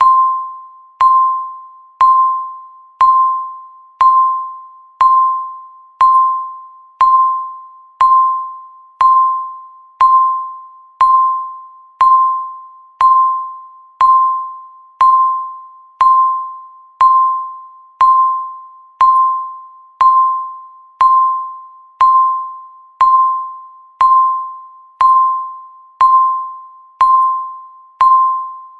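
Countdown timer's electronic beep sounding once a second as it ticks off the seconds: a single short mid-pitched tone, each starting sharply and dying away before the next.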